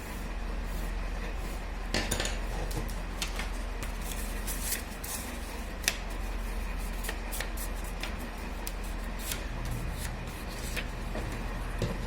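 Paper being handled during paper craft: rubbing and rustling with many short, sharp clicks and taps, over a steady low mains hum.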